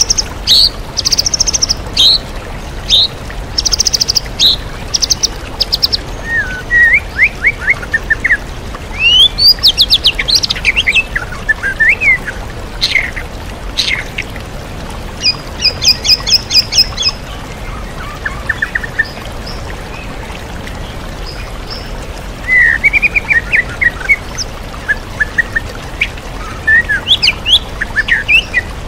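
White-rumped shama singing a varied song of loud whistles, rapid runs of repeated notes and rising and falling glides, the phrases mimicked from other songbirds, with a short pause about two-thirds of the way through. A steady waterfall rush runs underneath.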